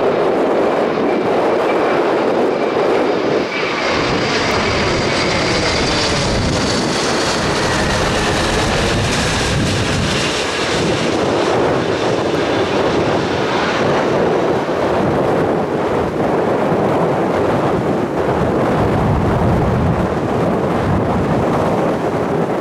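Jet airliner engines running loud as the aircraft passes close by. A high engine whine falls in pitch over the middle of the stretch, over a steady rumble.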